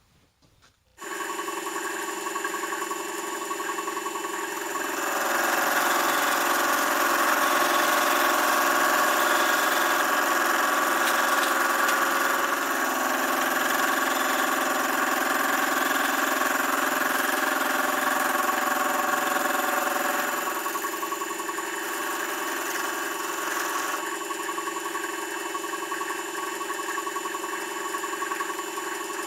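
Electric motor of a power tool switched on and running steadily, a humming whine with several pitches. It grows louder and shifts in tone for about fifteen seconds in the middle, as if under load, then settles back to its earlier steady running.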